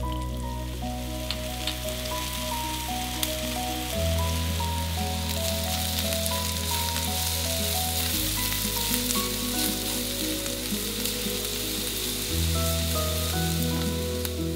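Diced red bell pepper, carrot, onion and ginger sizzling in oil in a wok, stirred with a spatula, over soft background music. The sizzle grows louder about five seconds in.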